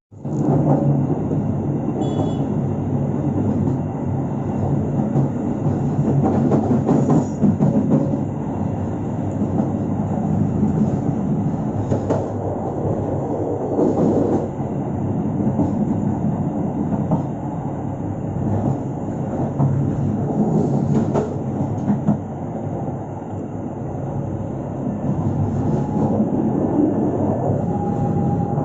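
Passenger train running on the track, heard from aboard: a steady rumble with occasional sharp clacks of the wheels over rail joints.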